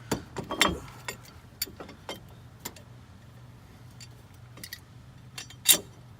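Metal brake parts and hand tools clinking and knocking as a brake pad is set against the caliper to compress its piston, with a cluster of light clicks about half a second in and one louder knock near the end.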